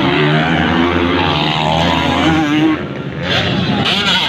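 Several motocross dirt bikes racing, their engines held at high revs at different pitches, with one engine climbing in pitch about halfway through.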